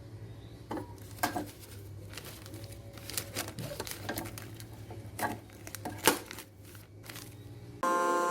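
Scattered crinkling and light clicks of small objects being handled, over a steady low hum. Music comes in suddenly just before the end.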